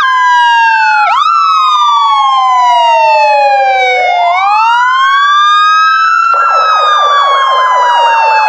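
Electronic police car siren wailing in slow falling and rising sweeps, with a fast warbling tone joining about six seconds in.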